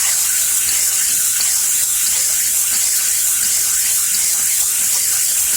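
Meat mincer plate being lapped on 360-grit sandpaper: a steady, high hiss of metal rubbing back and forth on the abrasive.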